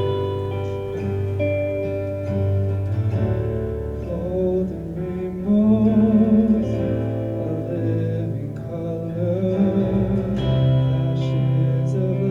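A verse of a contemporary worship song, sung by one voice over instrumental accompaniment, with sustained chords and the melody line coming in about four seconds in.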